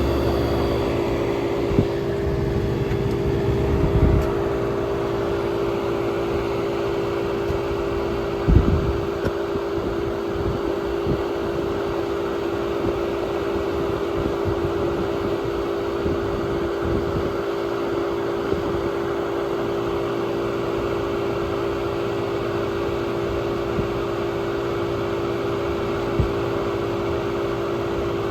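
1967 Chrysler Airtemp Imperial air conditioner running steadily: a constant hum under the even rush of its fan, with a few brief low thumps.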